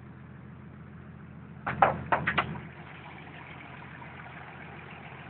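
Nissan 300ZX Z32's VG30DE 3.0-litre V6 idling steadily and smoothly. About two seconds in come four loud, short knocks in quick succession.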